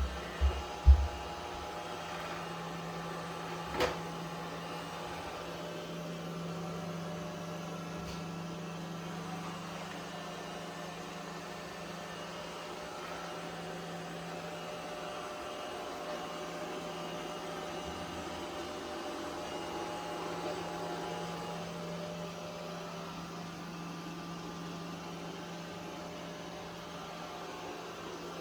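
Roborock Qrevo S robot vacuum running, its motor giving a steady hum, with a few knocks in the first second and a sharp click about four seconds in.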